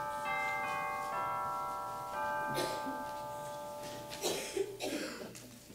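Chimes playing a short run of notes, each ringing on and overlapping the next before the sound fades out. Toward the end there are a few rustling noises.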